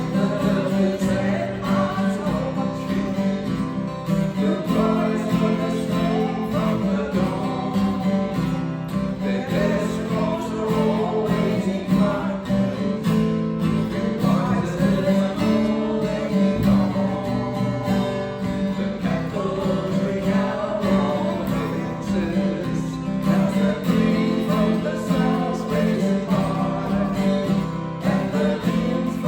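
Acoustic guitar strummed steadily, with a person singing along.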